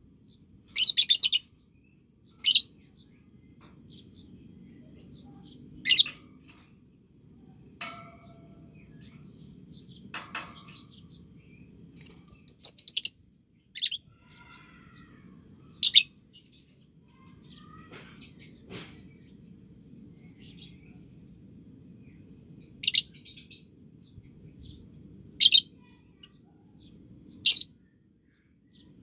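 Lovebird giving short, sharp, high-pitched chirps a few seconds apart, with a quick run of chirps about twelve seconds in. A faint low hum runs underneath.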